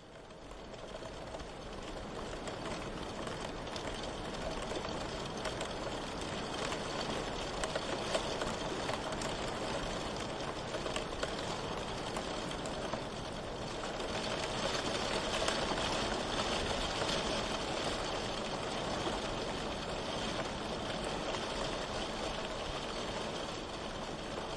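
Steady heavy rain, a dense even patter, fading up from quieter over the first couple of seconds.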